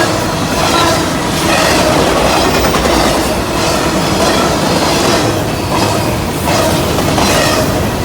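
Double-stack intermodal freight cars rolling past close by, steel wheels clacking rhythmically over rail joints, about once a second, with a faint thin wheel squeal.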